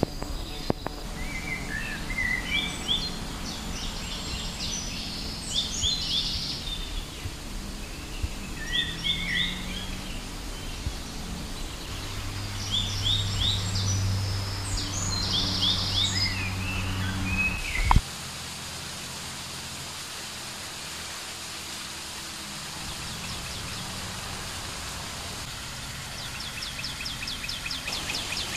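Songbirds calling in the trees, in repeated quick clusters of short, high, falling chirps over outdoor ambience. A low hum joins for a few seconds before everything cuts off with a sharp click about two-thirds through, leaving a steady hiss. A fast, high ticking starts near the end.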